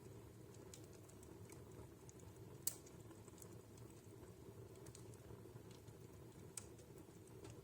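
Wood fire burning in a fireplace, crackling softly: scattered small crackles over a low steady rumble, with one sharp pop about a third of the way in and a smaller one near the end.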